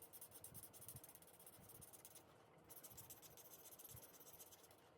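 Faint scratching of an alcohol blending marker's tip rubbing over stamped cardstock as an image is coloured in. It comes in two stretches, with a short pause a little over two seconds in.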